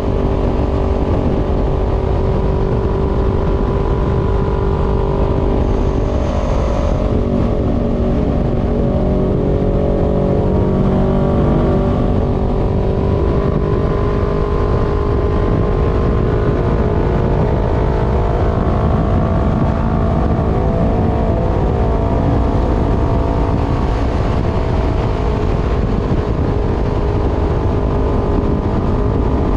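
Voge 500R's parallel-twin engine running through a full exhaust with the dB killer removed, heard onboard while riding at a steady pace, with low wind rush on the microphone. The engine note dips slightly and then climbs again about a third of the way in.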